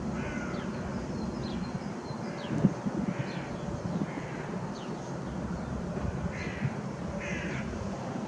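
Short harsh bird calls, about six of them at uneven intervals, over a steady low background rumble, with a few faint high chips.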